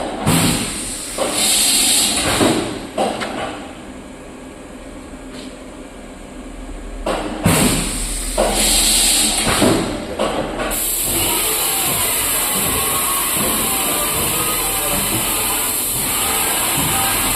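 YCM MV168A vertical machining center in operation: several sudden bursts of hissing with knocks over the first ten seconds, then a steady high hiss with a faint whine from about eleven seconds in.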